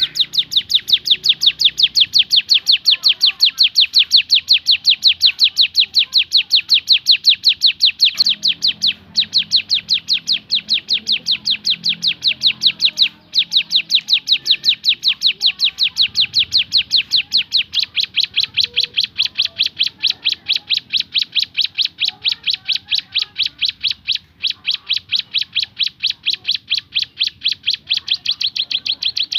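A ciblek gunung (mountain prinia) calls in a long, fast string of sharp, high repeated notes at several a second: the rapid 'tembakan' (shooting) call. The string breaks off only briefly, a few times.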